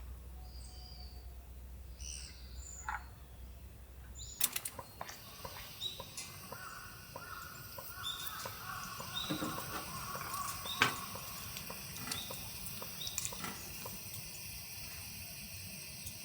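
Small birds chirping in short calls, with a low rumble under the first four seconds that stops abruptly. After that come scattered light clicks and knocks, two of them sharp.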